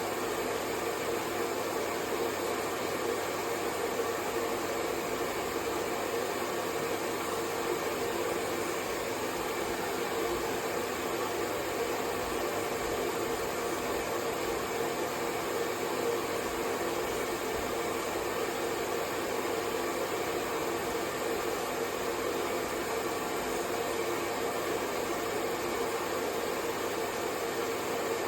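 Hair dryer blowing steadily, an even rushing hiss with a faint motor hum, unchanging throughout.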